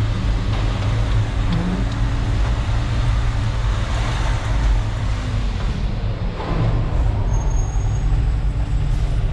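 Concrete mixer truck's diesel engine running steadily as the truck drives, heard from inside the cab as a continuous low rumble.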